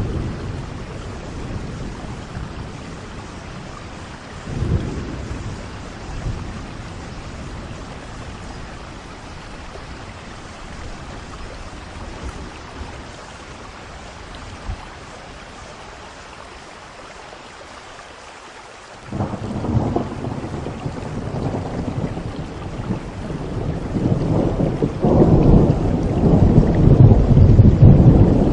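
Steady rain with thunder. A short rumble comes about five seconds in. About two-thirds of the way through, a heavy rumble breaks in suddenly and grows louder to the end.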